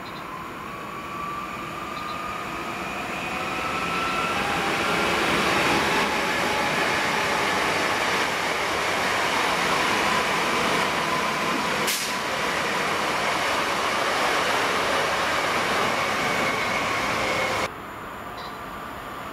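Newag Impuls (45WE) electric multiple units passing close by: a loud, steady rush of wheels on rail that builds over the first few seconds, with an electric whine rising slightly in pitch and one sharp click partway through. Near the end the sound cuts abruptly to a quieter, distant electric freight locomotive approaching.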